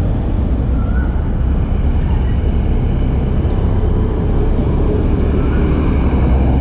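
Steady road traffic: cars driving past, with a deep rumble.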